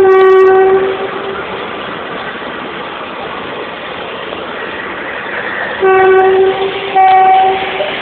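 Train horn sounding three blasts over the steady noise of a train running past: one blast at the start that stops within a second, then two shorter blasts close together near the end.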